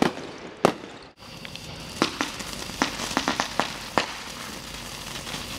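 Consumer fireworks: a single loud bang about half a second in, then a ground firework spraying sparks with a steady hiss and a quick string of sharp cracks between two and four seconds in.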